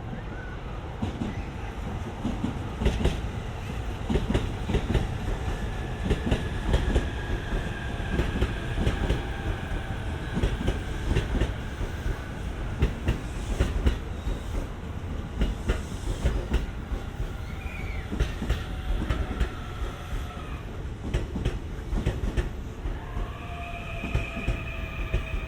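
E531 series electric multiple unit passing, its wheels clicking over rail joints in a continuous clickety-clack. Faint high whines slide in pitch now and then.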